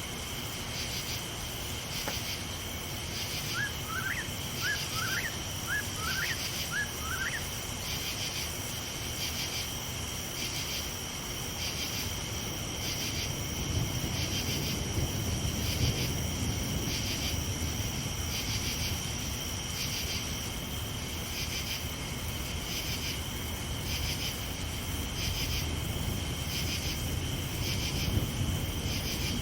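Night insects, crickets or katydids, chirping in an even pulsing rhythm throughout, over a low rumble that swells in the middle and again near the end. A quick run of six short rising chirps comes a few seconds in.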